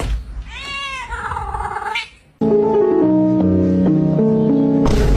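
A domestic cat meowing: one long meow that rises and then falls in pitch. A little over two seconds in, it gives way to music of steady notes stepping up and down.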